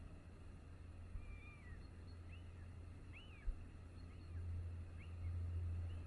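Faint outdoor birdsong: short chirping calls that rise and fall, repeating every second or so, over a low steady rumble that swells near the end, with one short knock about three and a half seconds in.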